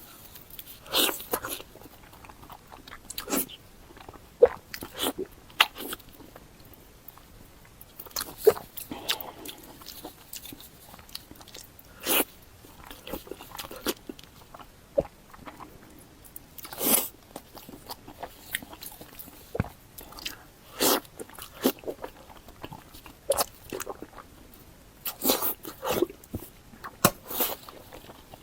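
Close-miked mouth sounds of someone eating: chewing and wet smacking, heard as irregular sharp clicks every second or so.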